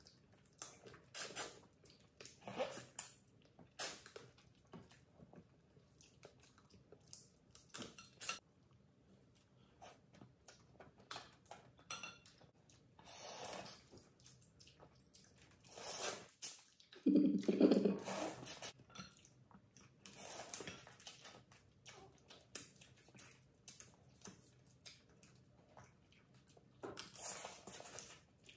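Close-up eating sounds of lobster: irregular slurps, sucks and chewing as meat is pulled from the shell pieces, with a few clinks of plates or cutlery. A brief louder low hum about two-thirds of the way in.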